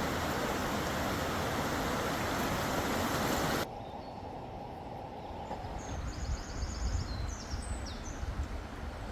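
Outdoor ambience: a steady rushing noise, then a sudden cut about three and a half seconds in to a quieter low rumble. Over the rumble a small bird gives a quick run of repeated high trilling calls.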